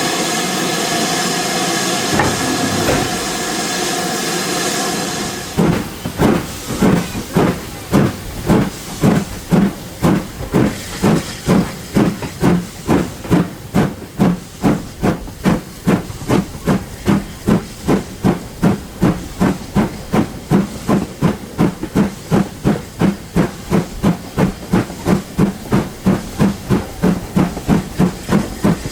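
Steam locomotive: a steady hiss of escaping steam, then, about five seconds in, the exhaust beats start. They chuff evenly and quicken from about two to three a second as the engine gathers speed.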